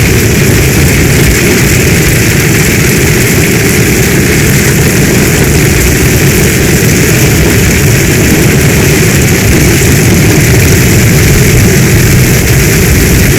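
Heavy storm rain: a steady loud hiss with a deep rumble underneath and no separate drops or strikes.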